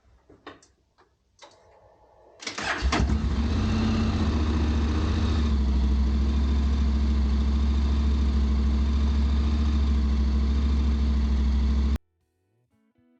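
A few light clicks, then the Honda X-ADV's parallel-twin engine is started with a brief crank, catches and idles steadily. The idle cuts off suddenly near the end.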